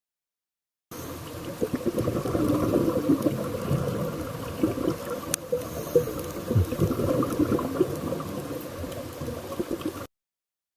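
Watery gurgling and bubbling noise with uneven surges, starting about a second in and cutting off suddenly near the end.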